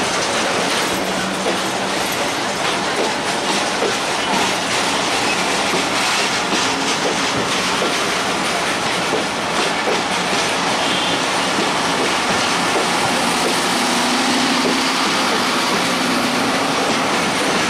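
Broad-gauge passenger coaches rolling past close by: a steady, loud rumble and rattle of steel wheels on the rails, with many sharp clicks as the wheels cross rail joints.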